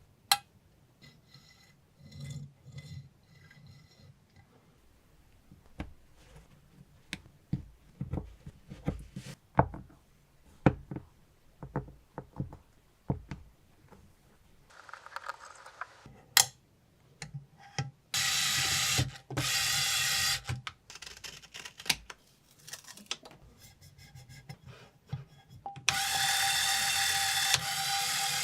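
A small power tool runs in two loud bursts of about two and a half seconds each, with a steady whine, in among scattered clicks and knocks of parts being handled.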